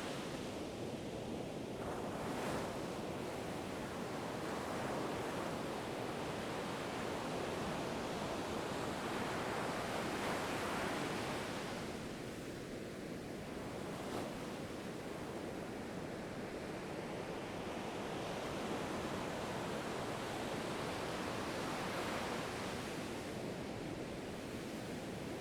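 Ocean waves breaking and washing ashore in a continuous rush of surf, swelling and easing every few seconds.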